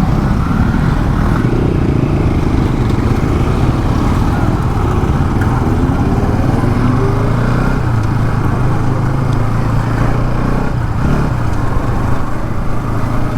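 Motorcycle engine running under way at road speed, its note rising in pitch a few times through the middle as the bike speeds up.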